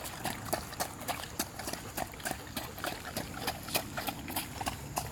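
Footsteps squelching and splashing through puddles and wet mud, a quick irregular run of small wet clicks and splats.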